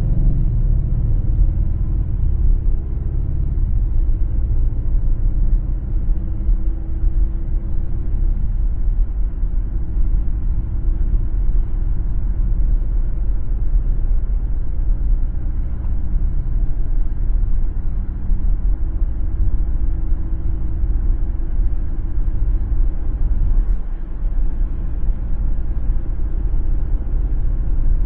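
Car driving on the road: a steady low rumble of tyres and engine, with a faint engine note that shifts in pitch a few times.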